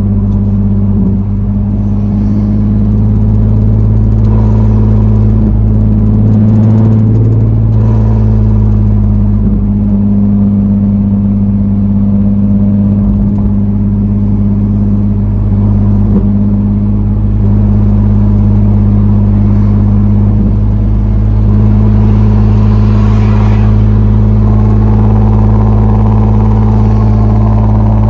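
Nissan 370Z's 3.7-litre V6 running steadily through a straight-piped single-exit exhaust with no muffler and no catalytic converters, a loud, deep, even drone. No rattle is heard now that the rattling muffler has been removed.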